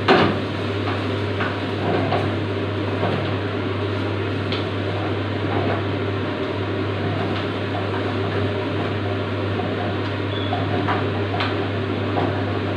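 Chicken giblets frying in very hot oil in a pan over a gas burner: a steady sizzle and burner noise with a low hum, and occasional knocks and scrapes of the stirring utensil, a louder one right at the start.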